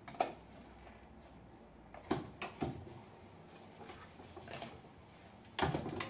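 A few light knocks and taps as grilled pitta breads are set down and arranged on a wooden serving board: one early, three in quick succession about two seconds in, and a short cluster near the end.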